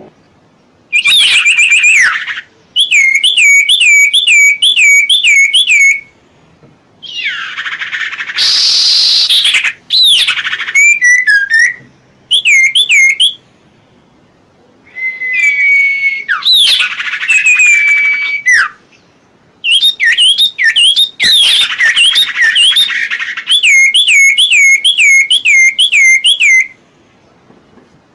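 A songbird known in Indonesia as serpu or cipoh singing in phrases of a few seconds: quick, repeated looping whistled notes, with short pauses between phrases. Around eight seconds in there is a harsh rasping call.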